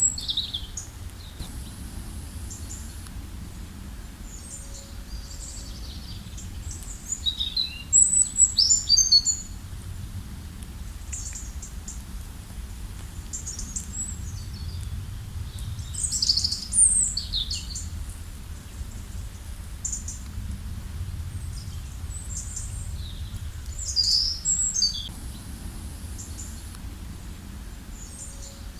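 Wild birds chirping and trilling in short, high-pitched phrases that come in clusters, loudest about eight to nine seconds in and again around sixteen and twenty-four seconds, over a steady low background rush.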